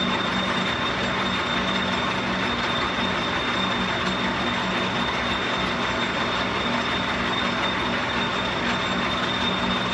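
Metal lathe running steadily with a constant hum and a thin high whine, the tool taking a cut along a steel axle toward its shoulder.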